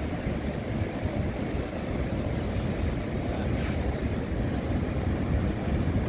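Steady low rushing noise of wind and surf, with no distinct events.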